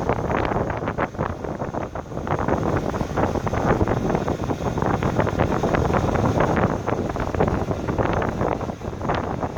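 Strong gusty wind buffeting the microphone: a loud, uneven rumbling roar that flutters and surges.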